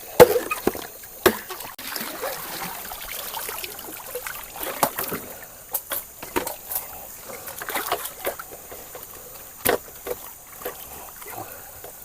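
Splashing and sloshing river water with scattered, irregular sharp knocks as bamboo is worked in the water for a raft.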